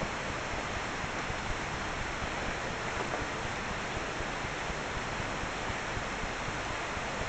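Steady rain falling: an even hiss, with no thunder clap.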